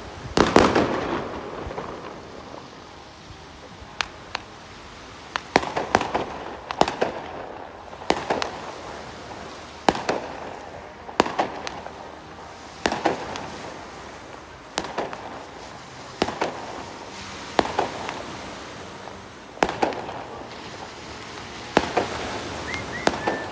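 Aerial firework shells bursting one after another, a sharp bang every one to two seconds, each followed by a short echoing tail. The loudest bang comes about half a second in.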